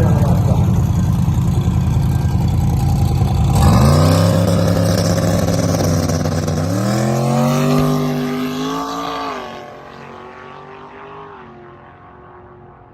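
A V8 drag car launching and accelerating hard down the strip. A heavy rumble gives way about four seconds in to engine pitch climbing through the gears, with a shift near seven seconds. The sound fades quickly as the car pulls away.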